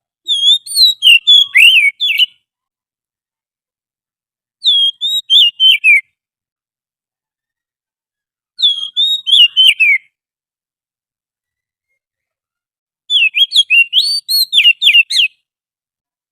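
Recorded song of an Oriental magpie-robin, of the kind played as a lure call: four short phrases of quick, clear whistled notes that slide up and down, each phrase about two seconds long with a few seconds of silence between them.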